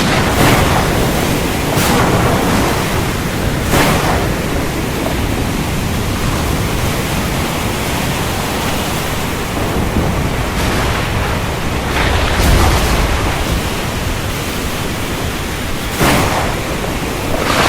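Thunderstorm: heavy rain hissing steadily, with a few brief sharp cracks and a low rumble of thunder about twelve seconds in.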